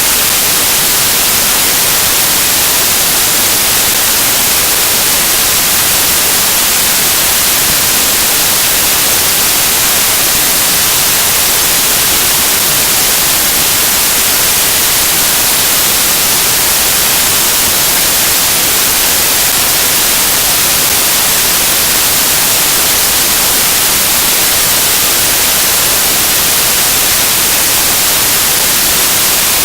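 Loud, steady hiss of static, like white noise, brighter in the treble and without any change.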